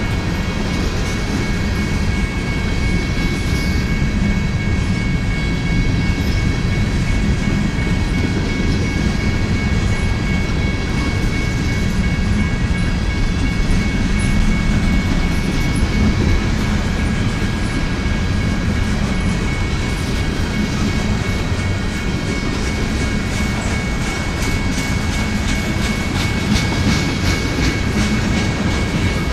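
Freight cars of a manifest train rolling past close by: covered hoppers, then tank cars, making a steady rumble of wheels on rail. A continuous high ringing tone sits above the rumble throughout.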